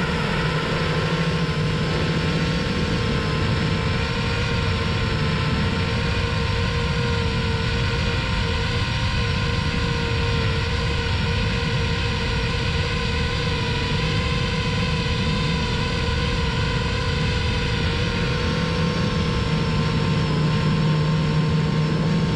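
Parrot Bebop 2 quadcopter's electric motors and propellers running steadily in flight: a continuous whine at several pitches over a low rumble.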